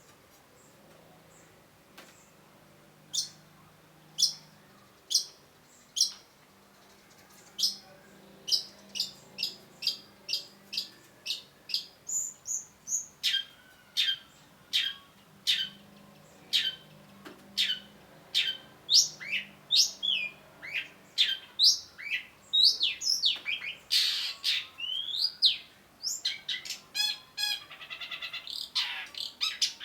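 Long-tailed shrike (cendet) calling in sharp, downward-sweeping high notes. The notes start about three seconds in at roughly one a second, quicken to about two a second, and run into a rapid buzzy chatter near the end.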